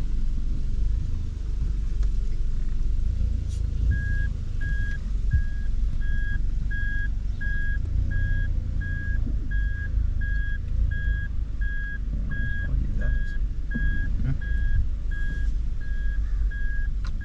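Vehicle's electronic warning beeper repeating an even single-pitched beep, starting about four seconds in, over the steady engine and road rumble inside the truck's cabin.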